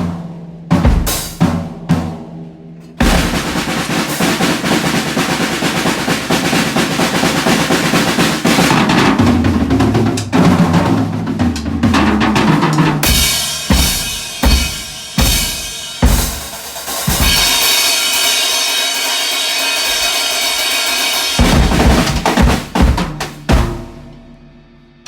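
A drum kit with two bass drums played freely. First come a few separate hits, then about ten seconds of fast rolls around the drums and bass drums. Then comes a long stretch of crashing, ringing cymbals, and it ends with a few last hits that die away near the end.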